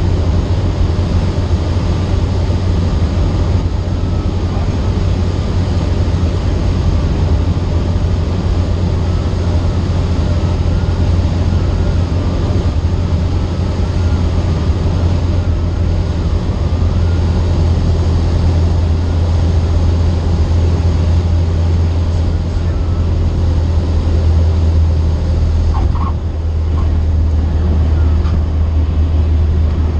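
Cessna 152's four-cylinder Lycoming O-235 engine and propeller droning steadily in cruise, heard from inside the cockpit.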